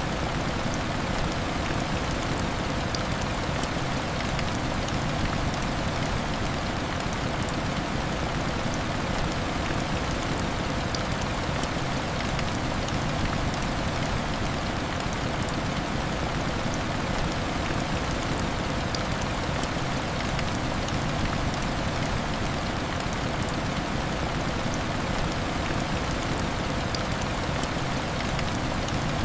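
Heavy rain falling steadily: a dense, even hiss with many small sharp ticks of drops striking a surface, unchanging throughout.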